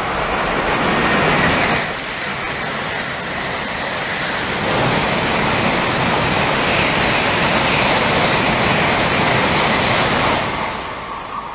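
Shinkansen bullet train passing at speed: a loud, steady rush of noise that dies away near the end.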